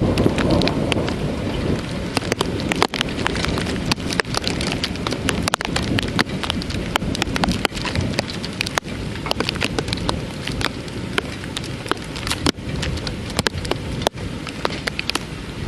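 Heavy thunderstorm rain, with dense sharp ticks of drops striking a hard surface close to the microphone. A low rumble in the first couple of seconds dies away.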